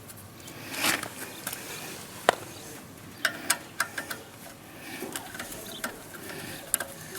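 Scattered light clicks and small metallic taps from hand tools and fittings being worked on an electric motor's terminal box during wiring, with a sharp click about two seconds in and a quick run of clicks a little later.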